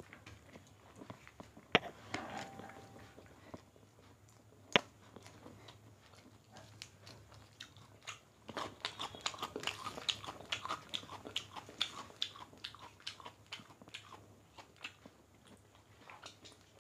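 People eating rice and chicken curry by hand: soft chewing and mouth smacking. There are a couple of sharp clicks in the first five seconds, and a dense run of quick smacks through the second half.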